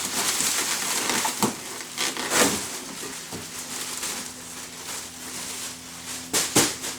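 Foam packing and cardboard box being handled and pulled apart: a steady crackling, crunching rustle with a few sharper, louder cracks, about a second and a half in, near two and a half seconds, and near the end.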